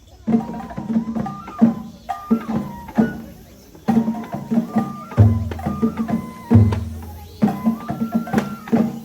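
Japanese festival hayashi music accompanying a lion dance: quick, sharp drum strokes under a high melody held in stepped notes, typical of a bamboo flute. A large drum booms deeply twice, about five and six and a half seconds in.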